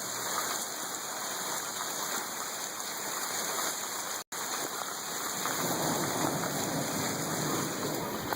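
Heavy rain pouring down, a steady hiss of rainfall that cuts out for an instant about halfway through.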